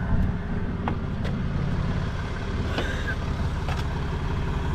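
Tow truck engine idling steadily, with a few sharp metallic clicks over it.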